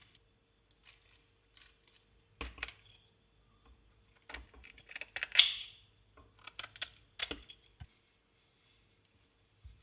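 Light handling sounds: scattered clicks and knocks, with one brief, louder rustling or scraping sound about five seconds in.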